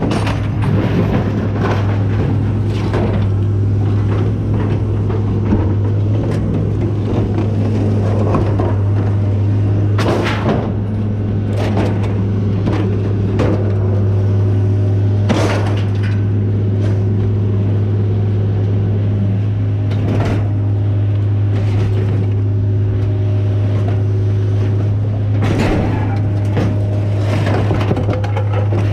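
Scrap metal clanking and crashing at irregular intervals as pieces are thrown off a load, over a steady low engine drone.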